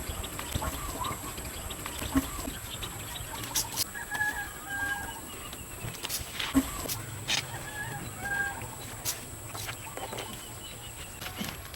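Chickens clucking in short, scattered calls, with sharp clicks and taps in between.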